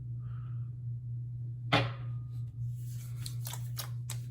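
Hands applying Proraso Green aftershave splash: a sharp click a little under two seconds in, then a run of light pats and taps on the skin toward the end, over a steady low hum.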